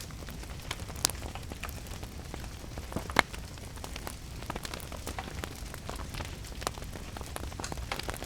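Wood fire crackling, with irregular sharp pops, two louder ones about a second in and a little after three seconds, over a steady hiss and low rumble of rain.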